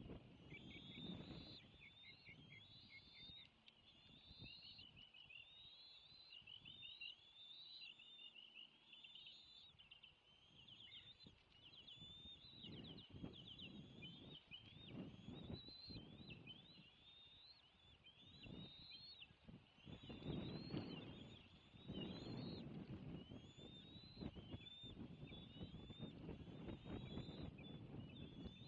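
Bald eagles at the nest giving a steady run of high, thin chittering calls, short rising chirps several a second, typical of food-begging around a prey delivery. Low rustling rumbles come and go beneath them, loudest about two-thirds through.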